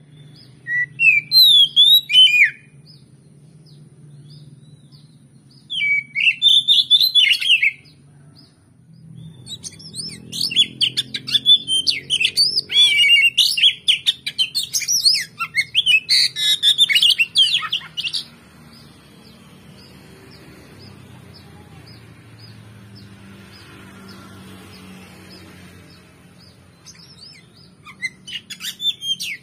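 Oriental magpie-robin (kacer) singing in bouts of quick, varied whistles and chirps: two short bursts in the first eight seconds, a long run of about eight seconds in the middle, and a new burst starting near the end. A faint low hum runs underneath.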